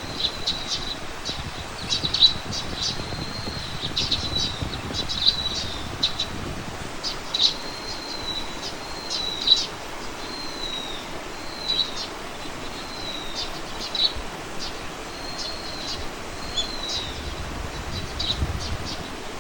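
Birds calling: short, high chirps and whistled notes repeat every second or so, some gliding down in pitch, over a low rumble that swells at times.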